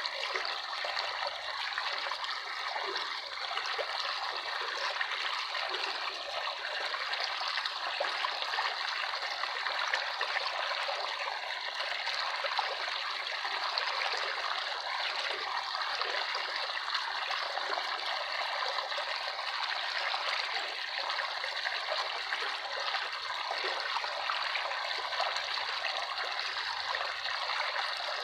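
Water trickling and flowing steadily, a continuous even babble.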